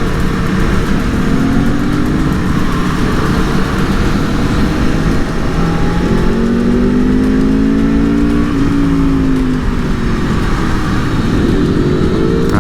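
Aprilia Tuono V4 motorcycle's V4 engine running on the road, its pitch climbing and dropping as the throttle is opened and eased off, under steady wind and road noise.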